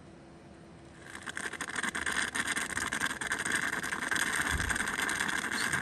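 Hot water and steam hissing out of a Breville Oracle Touch (BES990) espresso machine's boiler drain valve as it is slowly opened to drain the descaling solution, starting about a second in and staying loud and steady.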